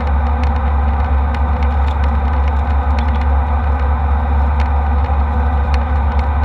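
Steady in-flight cabin noise of an Embraer E190 jet airliner: a constant low engine and airflow drone with a broad rushing hiss, and a few faint scattered clicks.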